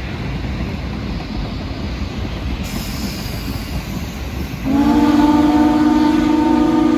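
A passenger train rolling past with a steady rumble of wheels on rails. About two-thirds of the way in, the train's horn sounds a loud, sustained chord that is still sounding at the end.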